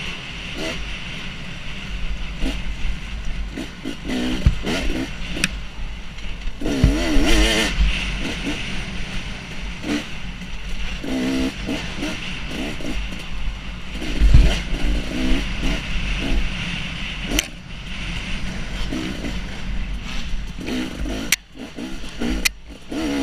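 Dirt bike engine revving up and down while riding trail, over wind rumble on the microphone, with a few sharp knocks from bumps.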